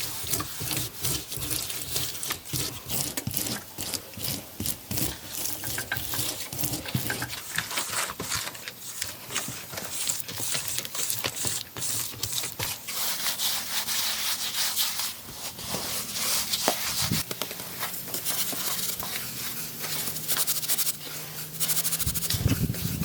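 Rapid, repeated scraping and rubbing strokes, like hand tools working against earth or wood.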